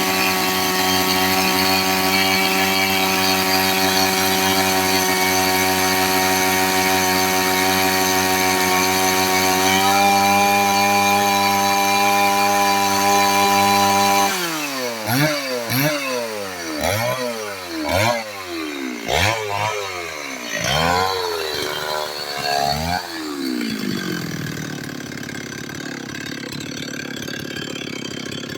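STIHL 024 AV EQ two-stroke chainsaw engine held at high revs for about fourteen seconds, then blipped up and down about eight times before settling to idle near the end.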